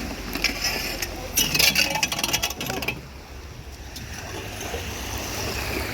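Rapid scraping and clattering of debris being worked loose in a storm drain, heaviest in the first half and then dying away over steady rushing water.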